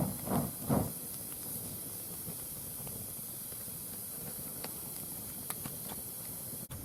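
Wood fire burning in a round fire pit: a steady hiss with a few sharp crackling pops in the second half. A few rhythmic whooshing pulses are heard in the first second.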